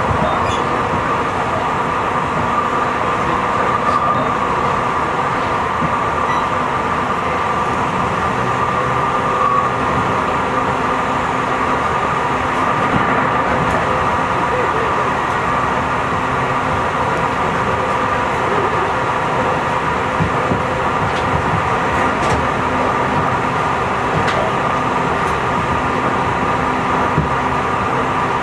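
Interior running noise of a Tobu 50090-series electric train cruising at speed, heard from inside the passenger car: a steady rumble of wheels on rail with an even, constant-pitched motor hum and a few faint clicks.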